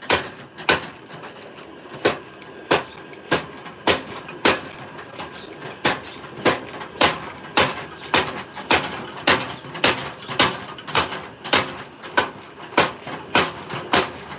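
Blacksmith's hammer striking metal in a steady rhythm, a little under two blows a second, each blow ringing briefly.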